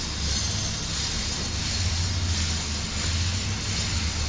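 An engine running steadily at low speed, giving an unbroken low drone.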